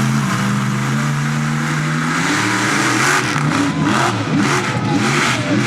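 Swamp Thing monster truck's engine at full throttle as it launches on its run. The pitch holds steady for the first two seconds or so, then rises and falls repeatedly with bursts of noise in the second half.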